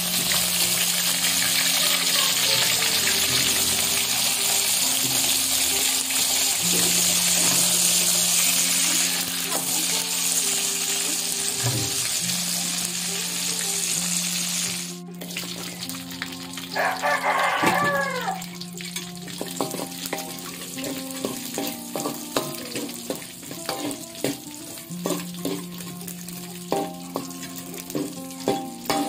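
Cut eggplant frying in hot oil in a wok with a loud steady sizzle. About halfway through, after a cut, petai beans fry with a quieter sizzle while a metal spatula clicks and scrapes against the wok. Background music plays throughout, and a brief warbling pitched sound comes in about two-thirds of the way through.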